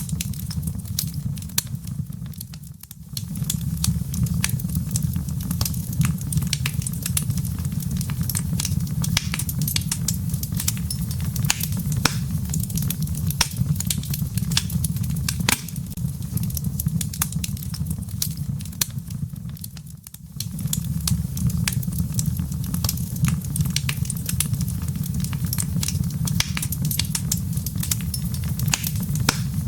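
Wood fire in a fireplace crackling, with many sharp pops of the embers over a steady low rumble of the flames. The rumble drops away briefly about three seconds in and again around twenty seconds in.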